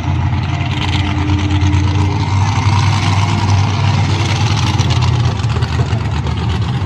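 Stoxkart engines running together in a race, a loud steady drone.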